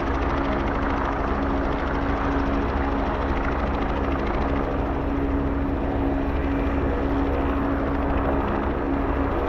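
Helicopter running at a steady level, with a constant hum under the rotor and engine noise.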